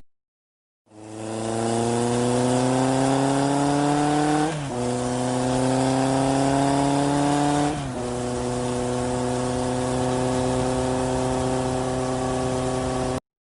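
An engine accelerating through the gears: its pitch climbs slowly, drops back at each of two upshifts about four and a half and eight seconds in, then holds steady before cutting off abruptly.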